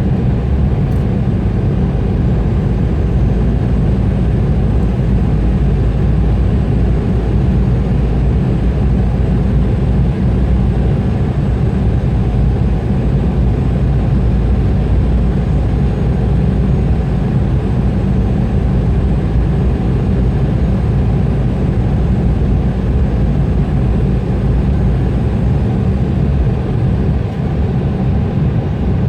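Steady cabin noise of an Embraer E175 airliner in flight: a constant low rumble from its turbofan engines and the rush of air past the fuselage, heard from inside at a window seat.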